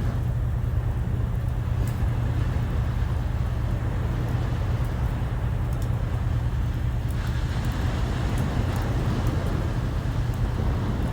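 Sea waves washing in with wind buffeting the microphone: a steady low rumble under a continuous rushing hiss, with a few faint clicks.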